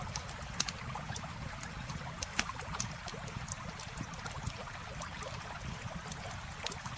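Wood campfire crackling, with irregular sharp pops and snaps, a couple of louder pops standing out, over the steady rush of flowing river water.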